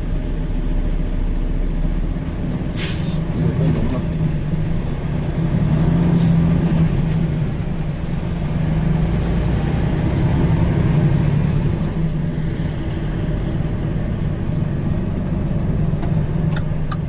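Diesel semi-truck engine running steadily, with two short hisses of air brakes about three and six seconds in, and a run of quick ticks near the end.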